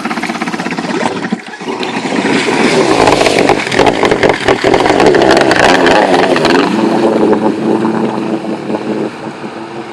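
Kawasaki JS300 stand-up jet ski with a swapped-in two-stroke 650 twin and custom exhaust pipe, revving: the engine picks up about two seconds in, runs loudest for a few seconds, then drops to a steadier, lower note near the end.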